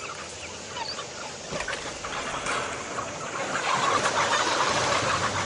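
A large flock of broiler chickens calling together, a dense chatter of short cheeps and clucks that grows louder toward the end.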